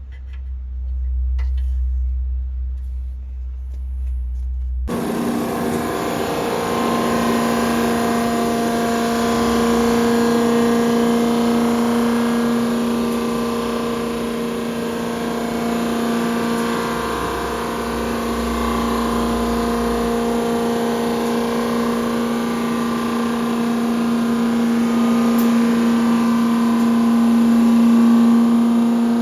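A low hum, then about five seconds in a machine-shop machine tool starts up abruptly and runs steadily with a constant hum and whine, as used for reboring and resurfacing a tractor engine.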